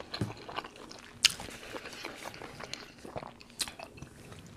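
A person chewing a mouthful of seafood boil close to the microphone, with irregular sharp mouth clicks and smacks, two of them louder than the rest.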